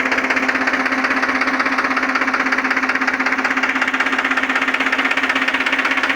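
Tractor diesel engine running steadily, with a fast, even knocking pulse.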